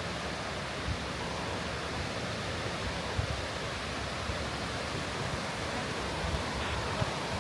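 Steady rushing of a waterfall, an even hiss with no breaks, over an irregular low rumble.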